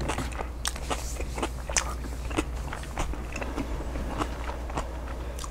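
Close-miked chewing of a mouthful of chicken burrito bowl: soft wet mouth clicks and smacks scattered throughout, over a faint steady low hum.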